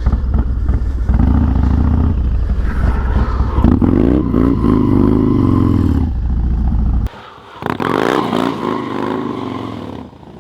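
Harley-Davidson Dyna FXDX V-twin engine revving hard during a drift, its pitch rising and falling. The low rumble cuts off abruptly about seven seconds in, and a lighter, wavering engine sound follows.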